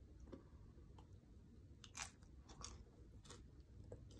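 Faint crunching and chewing of a mouthful of crisp tlayuda (toasted corn tortilla with toppings), with a few sharp crunches in the second half.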